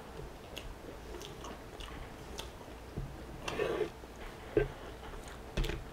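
Close-up chewing of a mouthful of Brussels sprouts: soft wet mouth sounds and small crunches, with a few light clicks.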